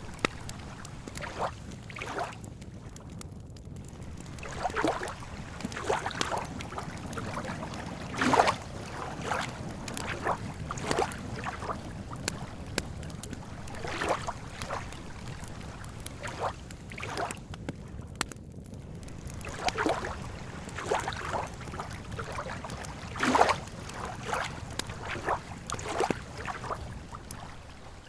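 Small lake waves lapping at the shore in irregular splashes every second or two, over a steady low rumble.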